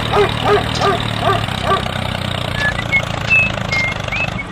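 A steady low engine hum, with five short, evenly spaced voice-like calls over it in the first two seconds and a few brief high whistled chirps in the second half.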